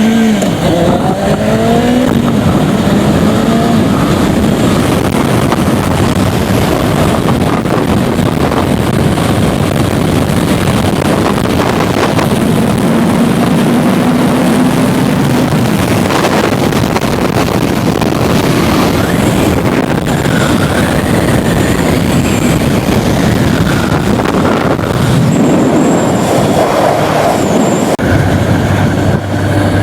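Kawasaki ZZR600 inline-four engine running on the move, under a heavy rush of wind noise. The engine note rises a couple of times as the bike accelerates.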